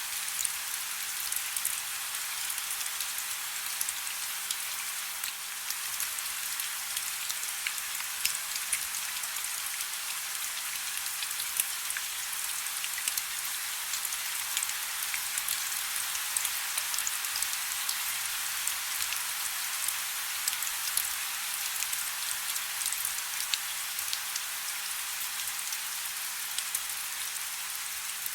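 Soft, steady rain: a dense patter of fine raindrops with many small ticks, sitting mostly in the high range with little low rumble.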